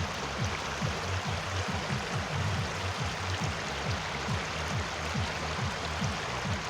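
Flowing stream water rushing steadily over its bed, with quick low gurgles throughout.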